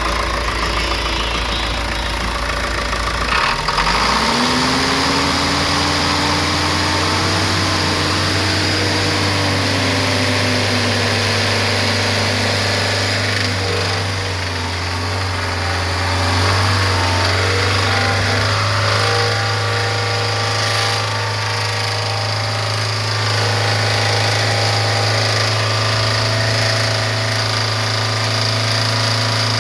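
The 4.78 L four-cylinder turbo-diesel (Isuzu 4HE1) of a 2001 W4500 truck running steadily. About three and a half seconds in the engine speeds up and stays at a higher speed, with a whine that rises, holds, and fades away some eight seconds later.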